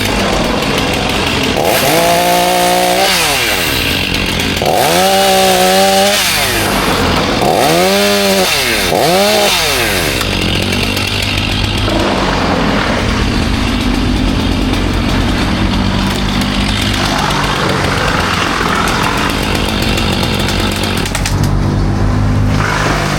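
Chainsaw revved three times, its pitch rising and falling each time, then running on more steadily.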